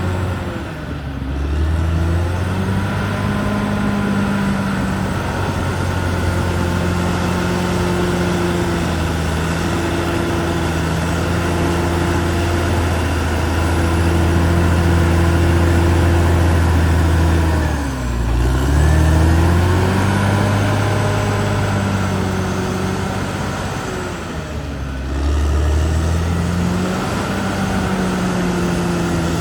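Caterpillar D6R XL bulldozer's diesel engine running at high revs. It dips in speed sharply and climbs back three times: about a second in, a little past the middle, and again toward the end.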